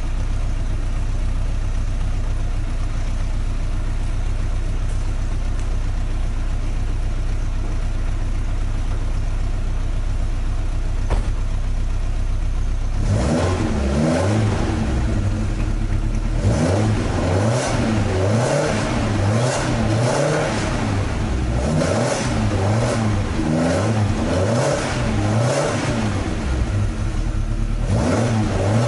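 Toyota AE86's 5-valve-per-cylinder 4A-G inline-four heard through its stock muffler at the tailpipe, idling steadily, then about 13 seconds in blipped over and over in quick revs that rise and fall about once a second until near the end. The exhaust system has taken in a lot of water.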